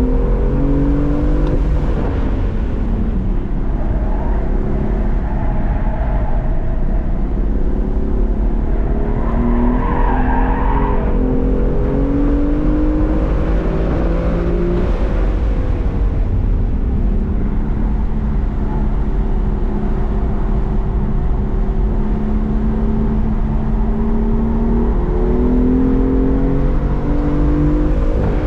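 BMW M4's twin-turbo straight-six engine heard from inside the cabin at track pace, its note climbing in pitch as the car accelerates and dropping back as it lifts and shifts, several times over.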